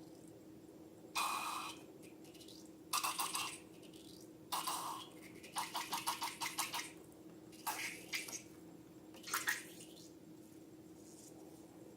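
Wet squelching of slime in six short bursts, one of them a quick run of crackling pulses near the middle.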